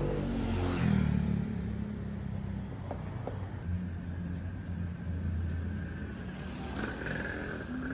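Low, steady rumble of motor-vehicle traffic on a street, with a faint steady high tone coming in near the end.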